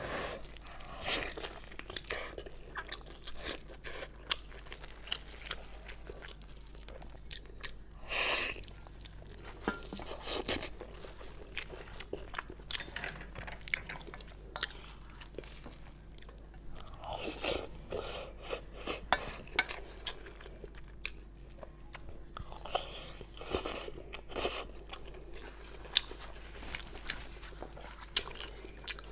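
Close-miked chewing and biting as a person eats braised pork knuckle with rice, the chewing coming on and off in irregular clusters.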